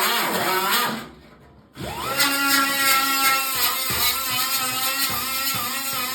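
Handheld rotary power tool cleaning sheet metal. It runs with its pitch wavering under load, cuts off about a second in, then restarts about two seconds in, spinning up to speed and running steadily.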